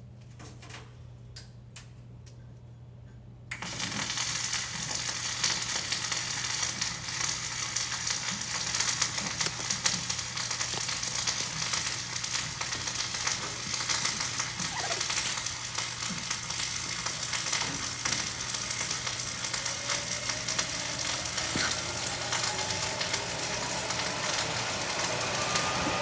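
Millermatic 255 wire welder running flux-core wire: after a few light clicks, the arc strikes about three and a half seconds in and crackles steadily, over a steady hum.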